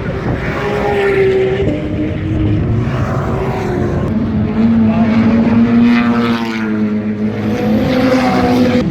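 Car engines running hard on a track, their note stepping and sliding in pitch as the cars pass and shift.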